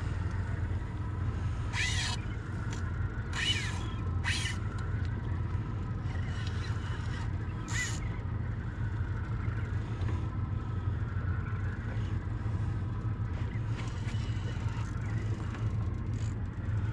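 Steady low rumble of a boat at sea, with a faint steady tone above it. A few short, high, sliding calls or squeals break in at about two, three and a half, four and eight seconds in.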